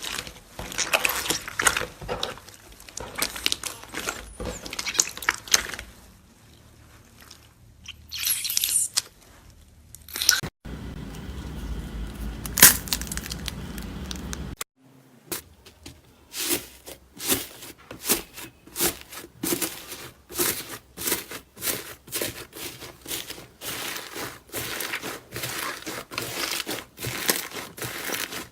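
Slime being squeezed, stretched and poked, giving runs of sticky crackles and pops. Partway through there is a stretch with a low steady rumble, then a run of pops about one or two a second.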